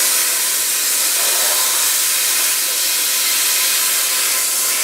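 Plasma cutter running: a steady, loud hiss of compressed air and cutting arc.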